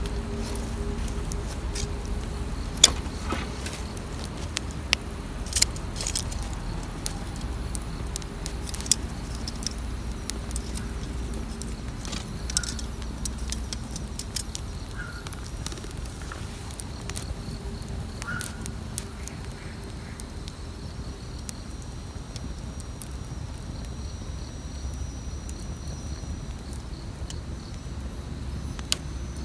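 Wood campfire burning, crackling with scattered sharp pops at irregular intervals, the loudest about three seconds in, over a steady low rumble.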